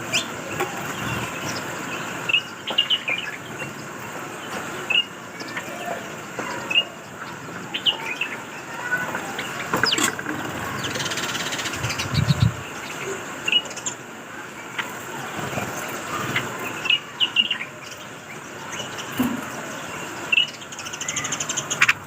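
White-eared bulbuls calling with short, sharp chirps every second or so, over steady background noise. A brief low rumble comes about halfway through.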